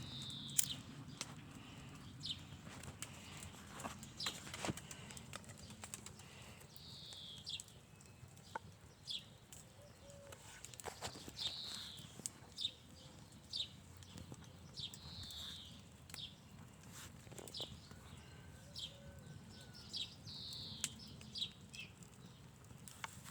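Campfire fed with pine cones, crackling with scattered sharp pops and snaps at irregular intervals as it flares up.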